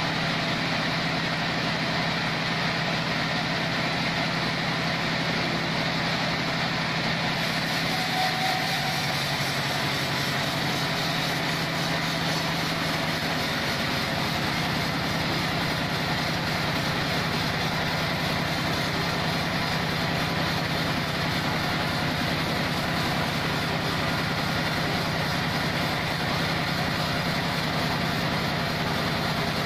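Band sawmill machinery running steadily, an even, unchanging drone.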